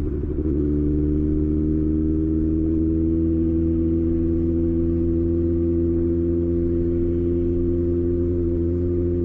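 Kawasaki ZX6R's inline-four engine settling into a steady idle about half a second in, then holding an even, unchanging hum.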